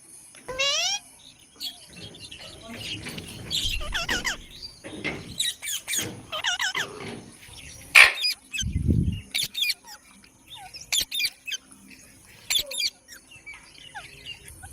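Pet parrots calling in many short chirps and whistles, with a wavering whistled call about half a second in and a sharp click about eight seconds in.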